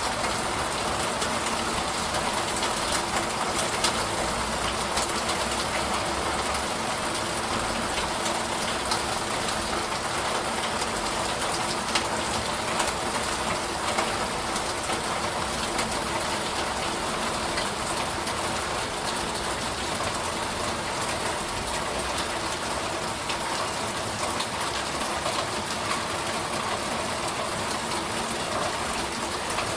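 Steady rainfall: an even hiss of rain on surfaces, with a sharper drop striking now and then.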